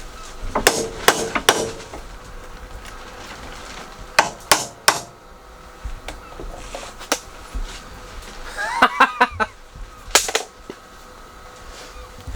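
Irregular sharp hammer knocks on metal, about eight blows, some in quick runs of three, as parts are worked into place on a car's front chassis. A brief squeak comes about nine seconds in.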